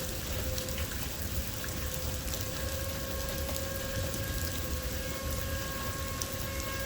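Steady rain falling, with scattered drops ticking, over a steady, distant outdoor warning-siren tone.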